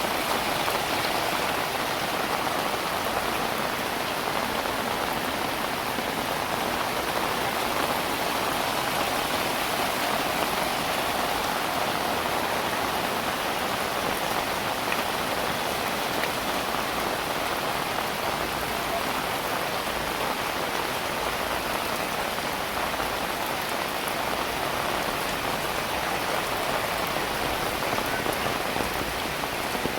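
Heavy rain falling steadily, a dense, even patter of raindrops on surfaces.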